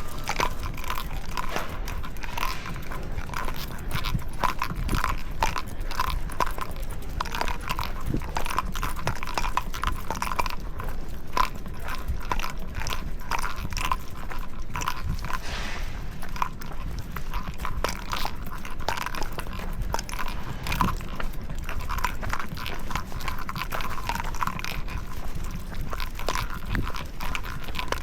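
Sounds of walking with dogs: a steady run of light, irregular clicks and scuffs, about two or three a second, over a constant low rumble.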